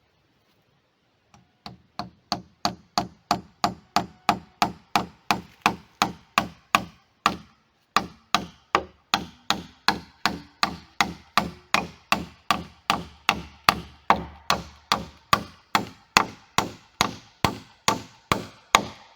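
Steady, even hammer blows, about three a second, driving a nail into a log; each blow rings sharply. There is a short pause about seven and a half seconds in.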